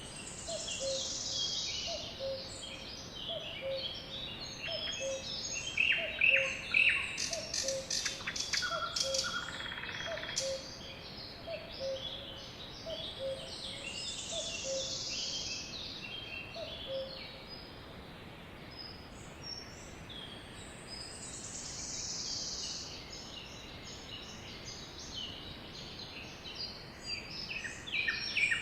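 Sparrows chirping and twittering, several birds overlapping, with a burst of rapid sharp chips about a third of the way in. A faint low two-note call repeats a little more than once a second through the first half, then stops.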